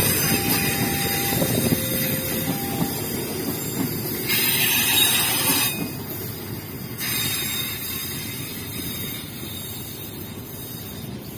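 Passenger train of stainless-steel coaches rolling past, its wheels rumbling on the rails with brief squeals and a short hissing squeal about four seconds in. The rumble fades as the last coach moves away.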